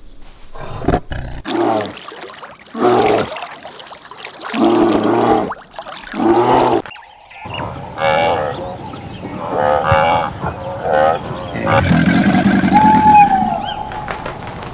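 Tiger vocalising: four pitched roaring calls about a second and a half apart. After a break, a run of shorter wavering animal calls and one longer, lower call near the end.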